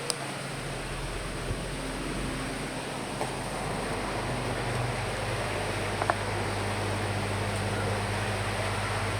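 Steady rain and wind ambience: an even hiss with a low, steady hum beneath it and a few faint ticks scattered through.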